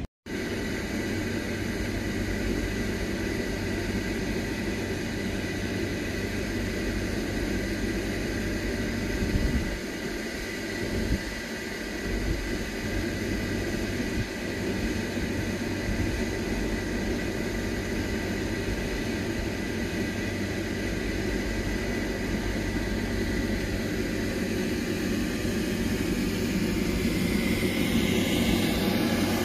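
A train running steadily: a constant low mechanical hum with a thin, high steady whine, growing a little louder near the end.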